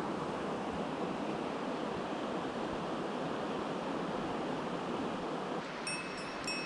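Mountain stream water rushing steadily. Near the end, bright repeated chime notes of background music come in.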